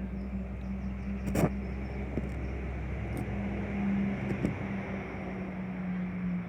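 Steady low engine hum over a rumble, with one sharp click about a second and a half in.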